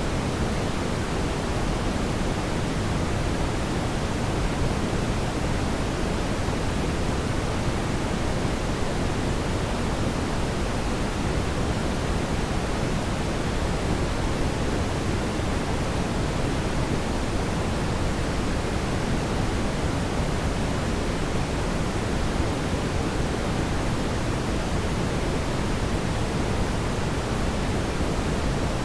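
Steady, even rushing noise, heaviest in the low end, with no crackles or pops. It is the constant bed of a fireplace ambience track, heard here more as a smooth hiss than as burning wood.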